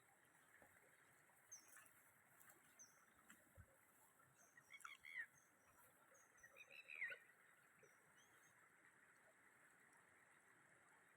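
Faint birdsong: scattered short high chirps and two louder calls around the middle, over a faint steady hiss.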